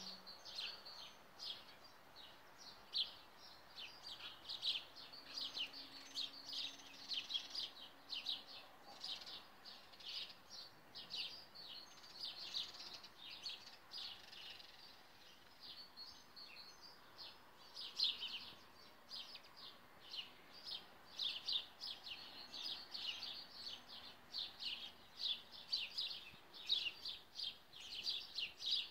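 Small songbirds chirping continually: a steady run of short, high chirps, several a second, with no break.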